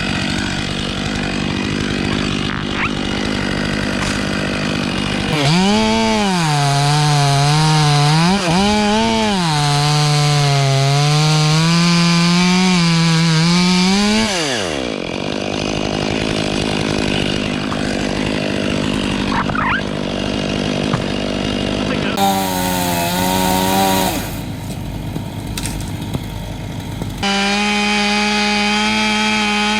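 Petrol chainsaw running at high revs and cutting wood, its pitch dipping and recovering as it works in the cut. About halfway through the engine winds down, then it revs up and runs steadily again near the end.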